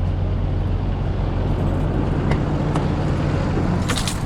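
Diesel engine idling steadily, with a couple of light clicks and a short hiss near the end.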